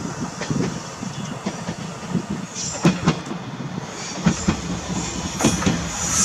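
Steam-hauled passenger train with a DE10 diesel at the rear rolling slowly: a low rumble, with the wheels clicking over rail joints in pairs.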